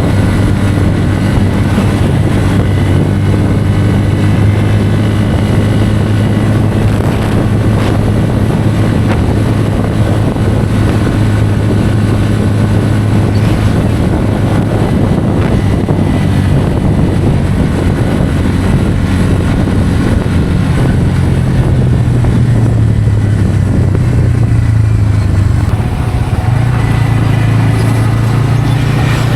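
Bajaj Pulsar N160's single-cylinder engine running steadily at riding speed, heard from on the bike. Its pitch rises a little about two-thirds of the way through, eases, then rises again near the end.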